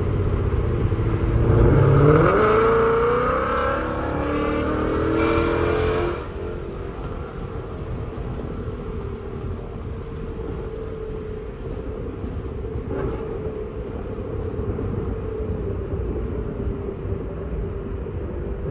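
Ford Mustang GT's 5.0 V8 with long-tube headers and Corsa Xtreme exhaust accelerating hard, rising in pitch, loudest about two seconds in. About six seconds in the throttle closes and the exhaust drops to a steady cruising drone.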